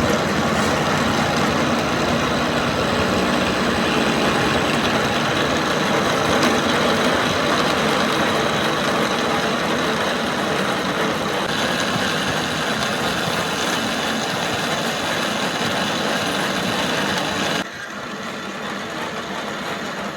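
Steady, loud running noise of a machine, with a faint hum in it; near the end it drops suddenly to a quieter, duller sound.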